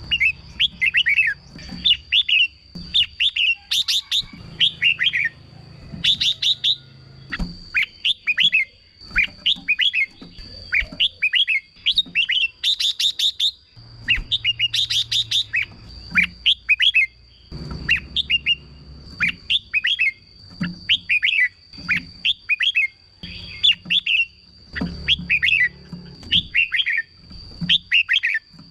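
Red-whiskered bulbul singing: short, quick, bubbly phrases repeated every second or two, over a faint steady high-pitched whine and some low rumble.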